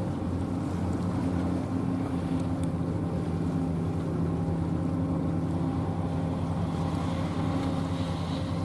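The engines of the 154-ton sea-surface cleaning and oil-recovery vessel Mizuki running in a steady low drone with a hum of several held tones, as the ship manoeuvres alongside the quay to berth.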